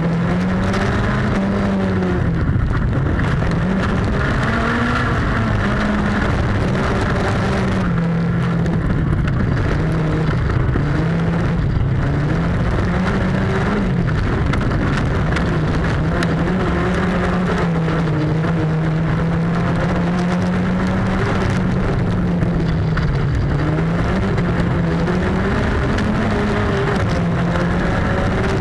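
Peugeot autocross car's engine running hard, heard from inside the stripped cockpit during a race. The revs rise and fall again and again as the driver shifts and lifts through the turns of the dirt track.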